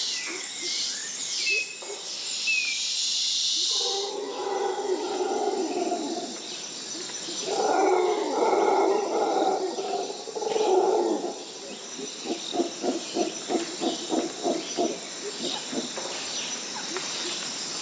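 Howler monkeys roaring: long, deep, rough calls about four, eight and eleven seconds in, then a run of short grunts at about four a second. Steady high-pitched insect whine throughout, with a dense insect hiss in the first few seconds.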